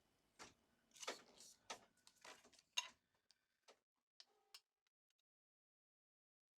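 Faint rustles and soft taps of a paper strip being folded and creased by hand: a run of short, quiet sounds over the first three seconds and a few fainter ticks after, then silence for the last two seconds.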